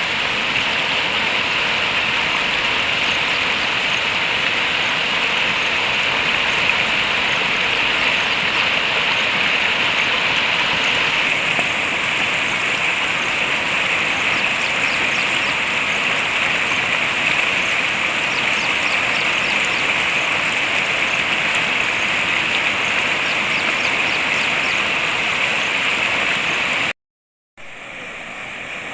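Steady loud rush of floodwater pouring over an overflowing culvert. It cuts out briefly near the end and then continues more quietly.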